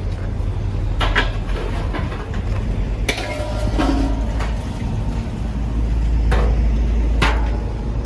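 Four sharp knocks or clanks of workshop handling, some with a short ring, over a steady low rumble.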